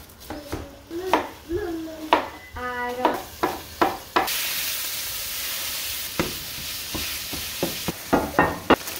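Utensil clicks and knocks against a pan, then about four seconds in a steady sizzle starts suddenly as food goes into a hot skillet, with more scraping clicks of stirring over it.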